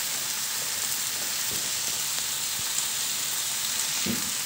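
Hand-cut pork and chopped onion sizzling steadily in a nonstick frying pan, the meat just starting to turn white. There are two soft low thumps, one about a second and a half in and one near the end.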